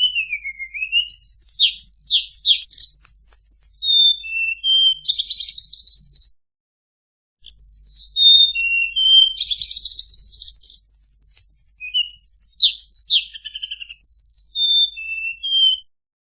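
Tledekan bird song, as played in a masteran recording for training cage birds: a fast, varied run of high chirps, buzzy trills and short whistled notes, with a break of about a second roughly six seconds in.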